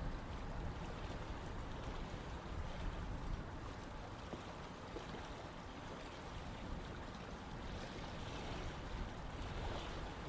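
Running water: a stream or river flowing in a steady rush with an uneven low rumble, easing slightly midway and swelling again near the end.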